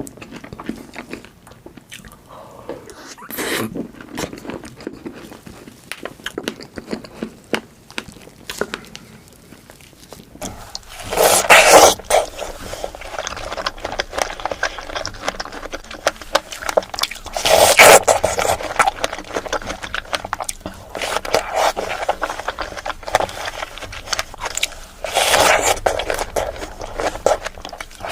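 Close-miked eating sounds: bites and chewing of fresh strawberries with Nutella and whipped cream, with many small clicks and three much louder bites spread through the second half. A faint low hum comes in about a third of the way through.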